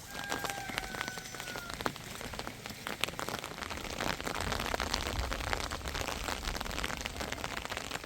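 Rain falling, a steady hiss dotted with many small drop impacts. In the first two seconds a faint high, slightly falling tone runs under it for a little under two seconds.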